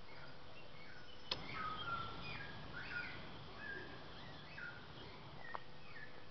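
Birds chirping and calling, many short overlapping notes. A sharp click about a second in and a fainter one near the end.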